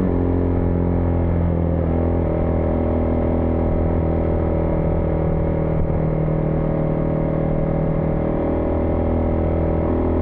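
Husqvarna Vitpilen 401's single-cylinder engine running steadily while riding, its pitch dropping slightly about two seconds in and then holding even.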